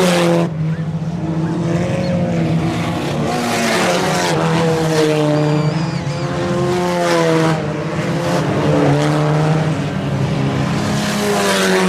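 A pack of IMCA Sport Compact race cars running on a dirt oval, their four-cylinder engines at racing speed. Several engine notes overlap, each rising and falling in pitch as the drivers lift off and get back on the throttle through the corners.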